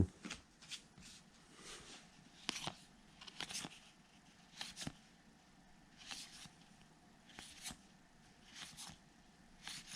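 2021 Topps Heritage baseball cards being flipped one behind another: faint soft swishes of card sliding on card, about one or two a second and often in pairs.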